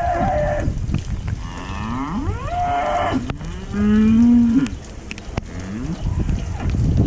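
Belted Galloway cattle mooing, several calls from more than one animal, some higher and some lower. The loudest is a long low moo about four seconds in.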